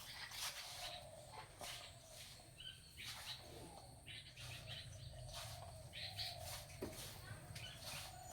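Faint bird chirps, a few short calls a second or two apart, over the quiet scuffing of hands mixing flour with milk in a bowl.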